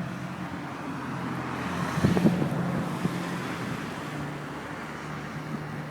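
Street traffic: a car passes, swelling and fading about two seconds in, over a steady low engine hum.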